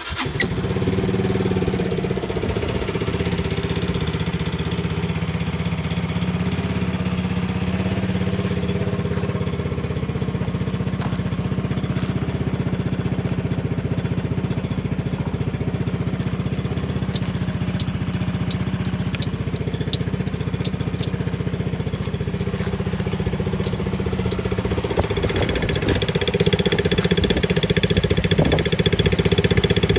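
Yamaha Majesty 125 Fi scooter's single-cylinder four-stroke engine starting at once and settling into a steady idle. A run of light clicks comes in the middle, and the idle gets a little louder near the end.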